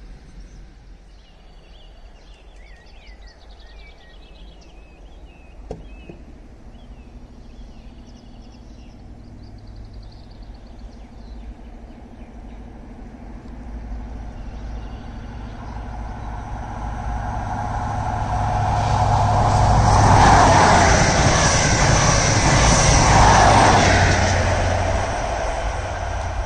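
Birds chirping at first, then a diesel train approaching and passing close by. Its steady engine hum and rail noise grow louder, peak twice about twenty seconds in, and begin to fade near the end.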